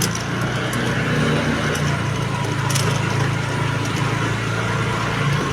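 A motor vehicle's engine running at a steady pace with a constant low hum, under a continuous rush of road and wind noise.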